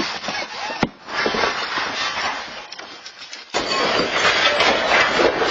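Household objects rattling and clattering as a building shakes in an earthquake, a noisy jumble with many sharp knocks. The sound changes abruptly about three and a half seconds in.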